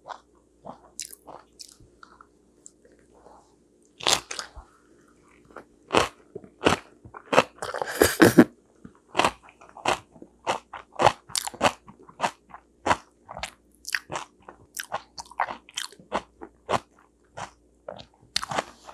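Close-miked chewing of fresh napa cabbage geotjeori kimchi wrapped around steamed sweet potato: crisp crunching, with a louder burst of crunching about eight seconds in, then steady chewing at about two chews a second.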